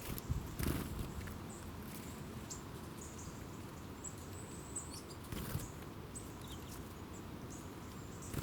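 Small birds chirping: scattered short, high calls over a steady low rumble, with two brief bumps, one near the start and one about five seconds in.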